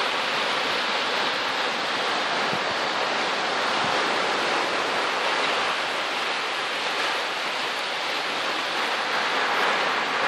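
Steady, unbroken rush of sea water, an even hiss with no separate wave surges.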